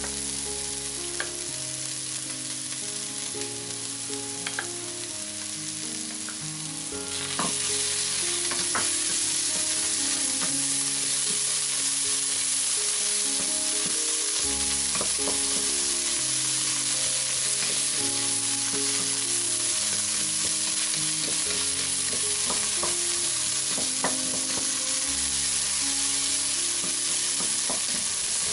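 Diced onion, carrot and celery root with tomato paste sizzling in oil in a pot as a wooden spoon stirs it, with occasional spoon knocks against the pan. The sizzle gets louder about seven seconds in. Soft background music plays underneath.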